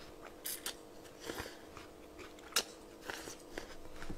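Close chewing and biting on a crisp piece of pear from cold naengmyeon: irregular crunches and mouth clicks, the sharpest about two and a half seconds in.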